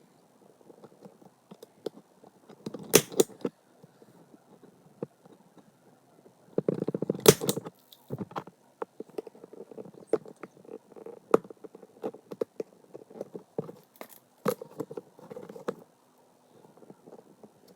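Paper and notebook pages being handled and worked with hand tools: soft rustling broken by many small clicks and a few loud sharp snaps, the loudest about three, seven and fourteen seconds in.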